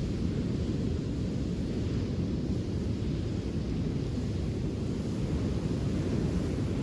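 Steady low rushing of wind on the microphone mixed with surf on a beach.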